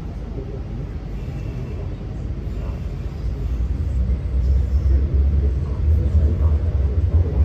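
MTR Kwun Tong Line C-Train heard from inside the car, pulling away from a station: a low rumble of wheels and traction equipment that grows louder from about three seconds in as the train picks up speed.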